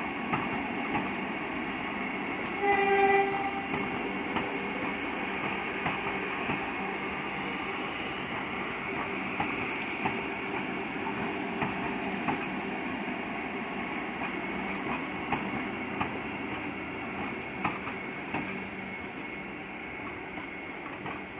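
Vande Bharat Express electric trainset passing at speed without stopping: a steady rumble of the coaches and wheels on the rails, with scattered clicks over rail joints. A short train horn blast sounds about three seconds in, and the sound gets a little quieter near the end as the last car passes.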